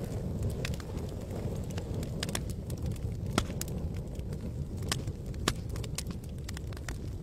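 Campfire burning: burning wood crackling and popping in sharp, irregular snaps over a steady low rumble, with a couple of louder pops partway through.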